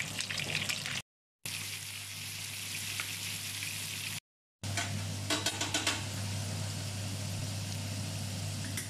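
Food frying in hot oil in a frying pan: meatballs, then chopped vegetables, then cubed potatoes, sizzling with a steady hiss and a burst of spattering crackles about halfway through, over a low steady hum. The sound breaks off into silence twice, briefly, at the cuts between pans.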